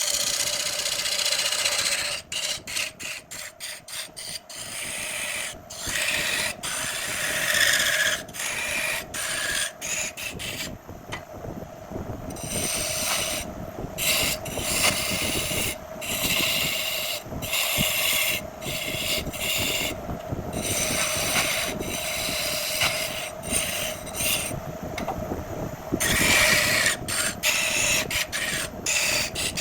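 Wood lathe motor running with a steady hum while a turning tool scrapes against the spinning jackfruit wood. The scraping keeps breaking off briefly and starting again, in short repeated passes.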